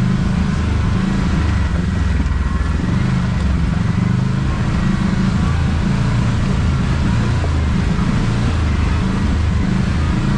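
Kawasaki KRX side-by-side's engine running steadily while driving along a rough trail, a low drone that wavers a little in level.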